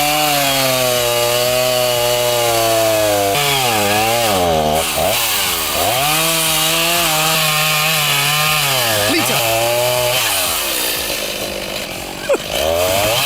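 Chainsaw running hard in a cut, its pitch sagging and recovering several times as the chain loads up in the wood. Shortly after ten seconds the engine note drops away, a sharp click follows, and the saw revs back up near the end.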